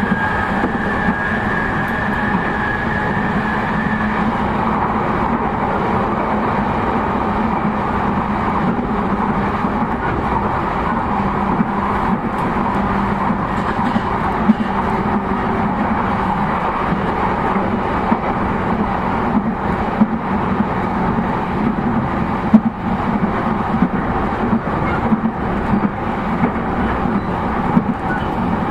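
JR East E233-0 series electric train running between stations, heard from inside the passenger car: steady rolling and motor noise with a low hum, and occasional short clicks from the rails. A high whine fades out in the first few seconds.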